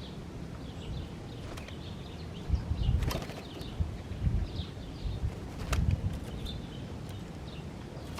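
Small birds chirping in short, scattered calls, with low thuds and rustling that are loudest around three and six seconds in, and a couple of sharp clicks.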